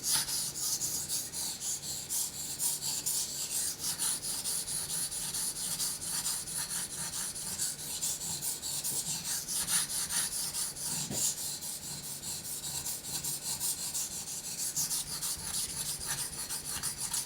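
Knife blade being stroked rapidly back and forth on a coarse 400-grit Naniwa Chosera waterstone, a continuous wet scraping hiss of repeated strokes: the coarse first stage of regrinding the edge.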